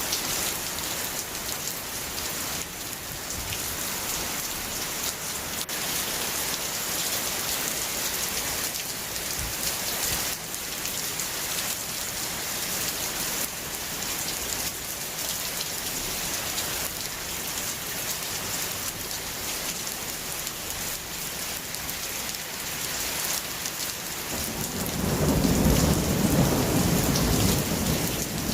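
Steady heavy rain falling on a surface, with scattered drops ticking, and near the end a loud rumble of thunder rolling in.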